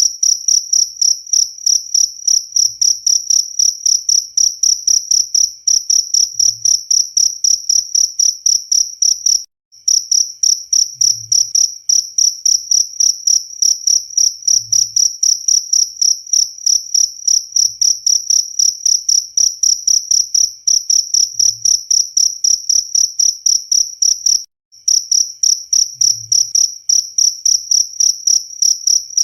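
Cricket chirping in a steady, fast rhythm of about three high-pitched chirps a second. It drops out for a moment twice, about ten seconds in and again later on.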